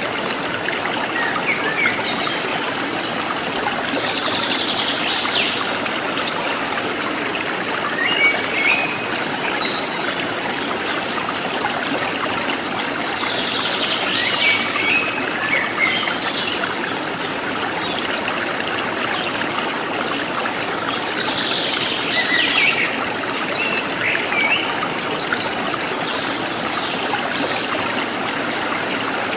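Forest stream trickling and splashing steadily, with a wild bird calling in short phrases of high, falling notes that come again about every eight seconds.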